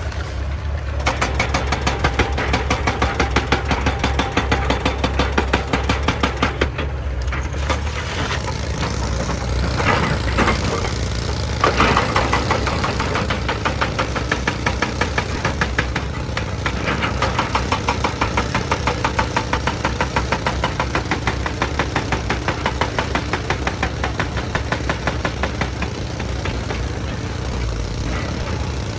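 Excavator's diesel engine running steadily with a rapid, even clatter of knocks, louder for a moment around ten and twelve seconds in.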